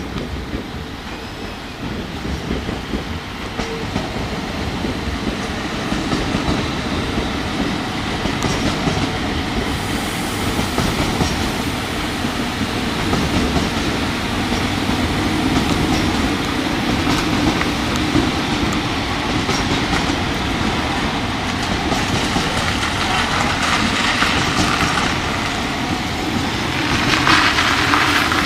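A train running past on the rails, its noise building over the first several seconds and then holding steady, with many short clicks running through it.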